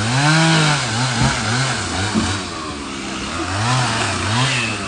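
Gas chainsaw revving, its engine pitch rising and falling over and over, one longer rev at the start and then about two a second, as it cuts up a fallen tree.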